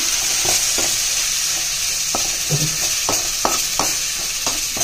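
Onions, garlic and curry leaves sizzling in hot oil in an iron kadai, with a spatula clicking and scraping against the iron as it is stirred at irregular intervals.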